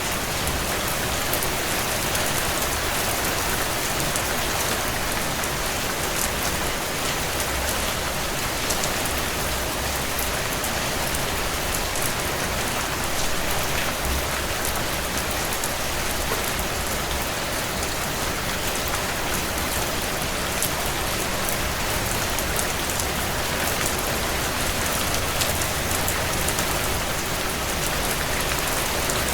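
Steady heavy rain on window glass, with scattered sharp crackles and pops from a wood fire burning in a stone fireplace.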